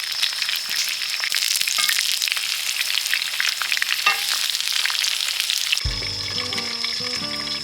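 Food frying and sizzling in hot oil on a camp cooking pan, a dense crackle of small pops. Background music comes in near the end.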